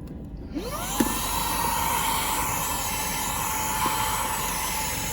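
Xiaomi mini cordless vacuum cleaner with a brushless motor switched on about half a second in: the motor whines up in pitch, then runs steadily with a high whine over the rush of air.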